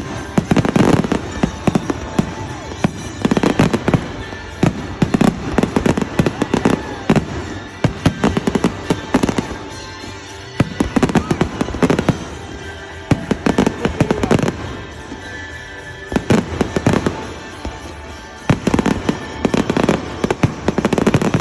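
Fireworks display: waves of rapid bangs and crackling, easing off briefly twice before starting up again.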